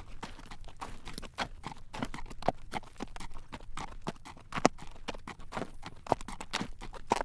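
Horse's shod hooves clip-clopping on a road as it walks, drawing a carriage: a steady run of sharp clacks, several a second, with a few louder strikes.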